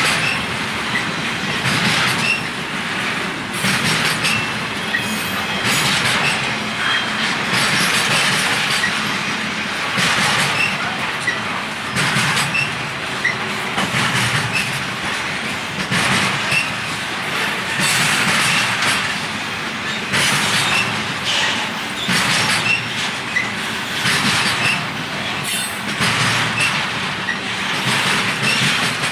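Freight train cars rolling past. The wheels clatter over rail joints in a regular beat about every two seconds, with brief high-pitched wheel squeals.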